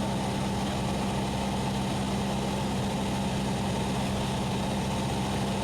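Steady drone of a Cessna 172SP's four-cylinder Lycoming engine and propeller in cruise flight, heard inside the cockpit, with a low, even hum that does not change.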